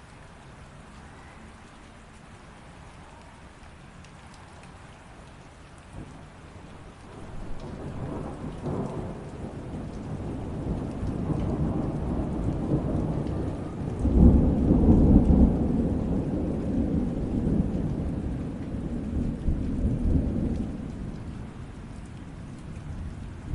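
Steady light rain with a long roll of thunder that builds about a third of the way in, is loudest just past the middle, and dies away near the end.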